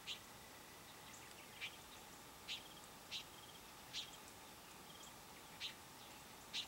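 A small bird giving sharp chip notes, about seven at irregular intervals of roughly a second, with fainter quick triple peeps in between, over a quiet background hiss.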